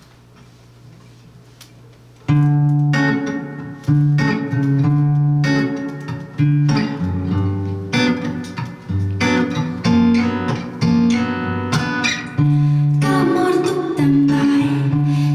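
Live band playing the song's instrumental intro on guitar, bass and drums. The band comes in together and suddenly about two seconds in, after a quiet start, and plays on at full level with a steady beat.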